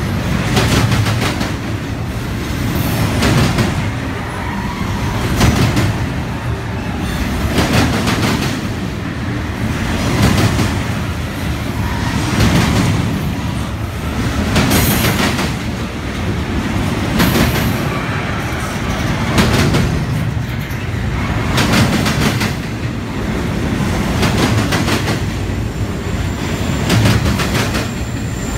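Double-stack intermodal freight train's well cars rolling past: a steady rumble of steel wheels on rail, broken by clusters of wheel clicks that come round about every two and a half seconds.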